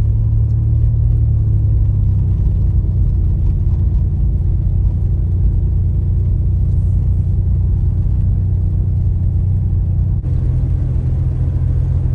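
Steady low rumble of a car on the move, engine and road noise, whose hum changes abruptly about ten seconds in.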